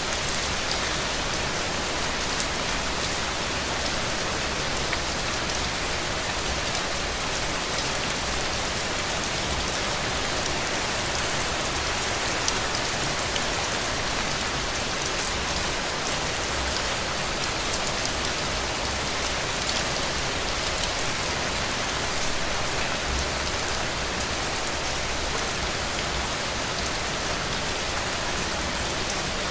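Heavy rain falling steadily on a roof, a dense even hiss with many fine drop ticks.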